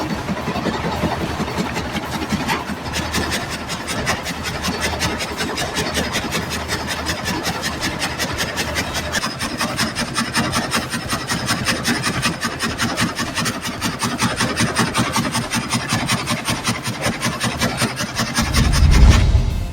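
Multi-blade sawmill saw cutting through wood into several planks at once, a steady rhythmic rasping. Near the end a louder low rumble lasts about a second.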